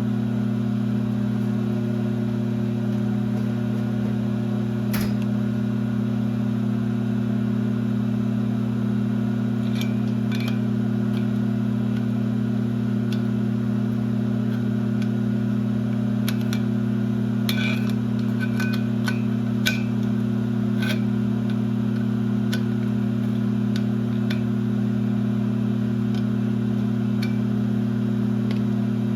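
Geared-head engine lathe (1966 LeBlond) running with a steady, even hum, with a few sharp clicks and ticks scattered through it, most of them past the middle.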